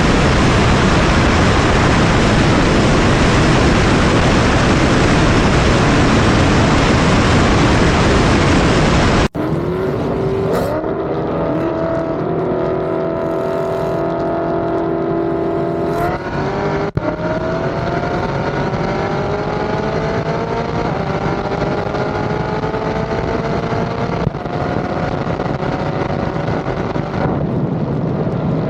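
Loud rushing noise for about the first nine seconds, which stops abruptly. Then a car engine is heard, running steadily at first and then rising in pitch several times as the car accelerates, with sudden breaks between the stretches.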